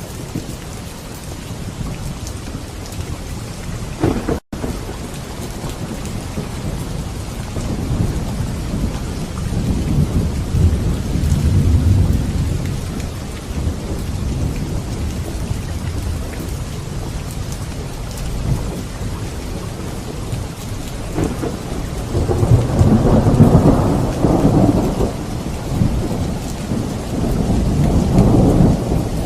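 Steady heavy rain with rolling thunder: a long low rumble builds about a third of the way in, and a louder one rolls through the last quarter. There is a split-second dropout in the audio about four seconds in.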